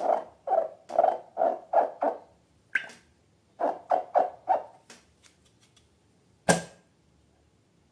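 Slime being squeezed and handled: a run of short squelchy sounds, about three a second, in two groups with a click between them, then one sharp snap near the end.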